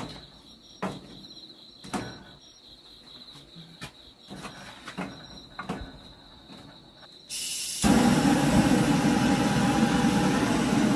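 Several scattered knocks from firewood being handled, over a steady high cricket chirr. About eight seconds in, a portable gas torch is lit and runs with a loud, steady rushing sound to fire up the wood.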